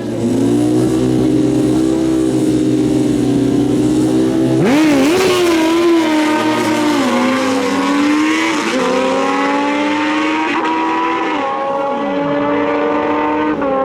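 Stock naturally aspirated sport-bike engines drag racing. They are held at high revs on the start line, then launch about four and a half seconds in. The pitch then climbs and drops back at each upshift as the bikes run down the strip.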